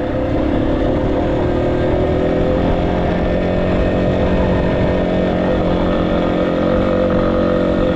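Motorcycle engine running at a steady pitch while under way.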